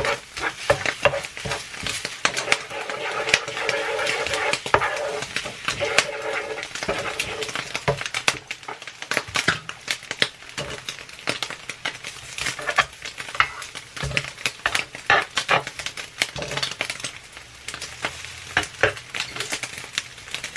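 Scrambled eggs and turkey bacon sizzling on an electric griddle, with a wooden spatula scraping and tapping against the griddle surface in frequent short clicks as the eggs are stirred.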